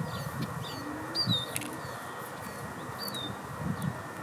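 Small birds chirping: short, high, falling notes repeated about once a second, over a steady background hiss, with a few soft low bumps.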